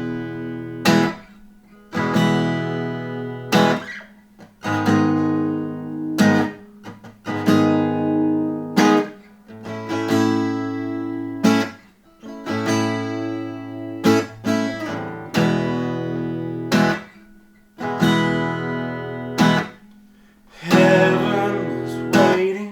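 Acoustic guitar strummed in the instrumental opening of a song: single chords struck about every second and a half and left to ring out.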